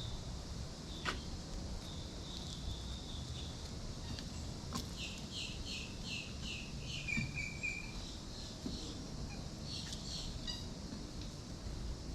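A bird singing: a thin held high note, then a run of about seven quick repeated falling notes that ends in a few lower notes, with a short burst of notes again near the end. A low rumble runs underneath, and two sharp clicks stand out.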